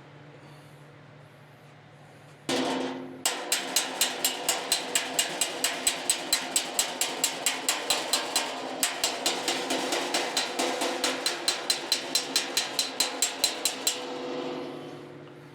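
Body hammer striking the fender's sheet steel over a dolly, a steady run of sharp blows at about three to four a second for some ten seconds, with a brief break midway. A short, louder noise comes just before the hammering starts, and a steady low hum runs underneath.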